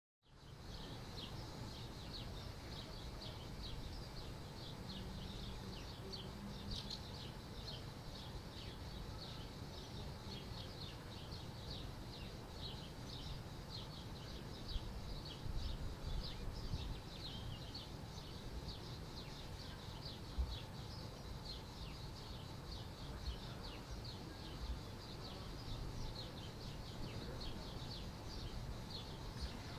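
Many small birds chirping continuously in a dense chorus of short high calls, over a low steady rumble of outdoor background noise.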